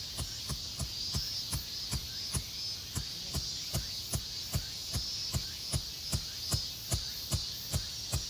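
A steady, regular low throbbing beat, about two and a half pulses a second, with insects chirring high above it.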